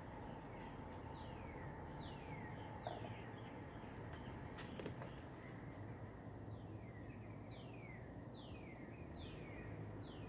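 A songbird singing: clear whistled notes that each slide downward, repeated in small runs, over a steady low background hum. A couple of sharp clicks sound near the middle.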